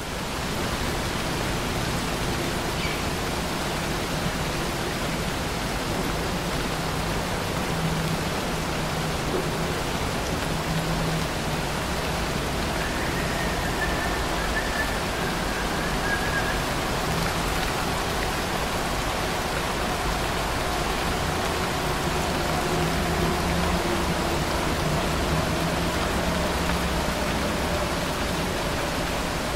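Steady rain falling, an even, dense hiss with a low rumble beneath it.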